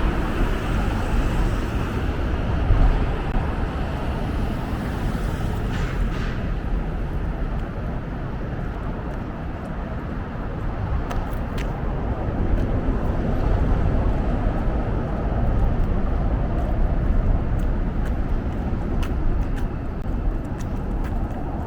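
Street traffic: cars passing on a nearby road, a steady rush of tyre and engine noise with a low rumble, and a few faint ticks in the second half.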